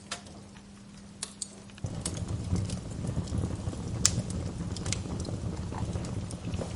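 Fire crackling in a fireplace, with scattered sharp pops, the sharpest about four seconds in. About two seconds in, a louder low rumble comes in under the crackles.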